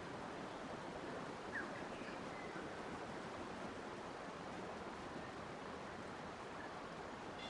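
Steady rush of flowing water, with a few faint, brief bird chirps about a second and a half to two and a half seconds in.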